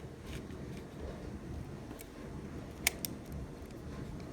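Small plastic clicks as the shell of an N scale Kato U30C model locomotive is pressed back onto its chassis: a faint tap about two seconds in, then a sharp click just before three seconds and a softer one right after.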